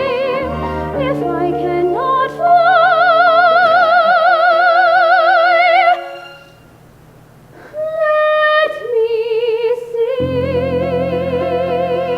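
Music: a soprano holding long, high sung notes with a wide vibrato over a low sustained accompaniment, with a brief near-pause about six seconds in.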